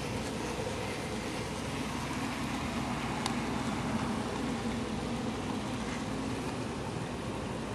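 N-scale model train running along the layout track, a steady mechanical whir with one sharp click about a third of the way in.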